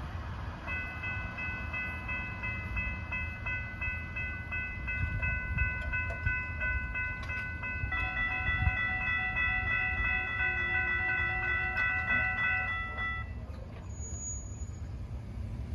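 Intermodal freight cars rumbling and clacking over the rails at a grade crossing. A steady high ringing tone sounds over the rumble, shifts to a different pitch about halfway through, and stops near the end.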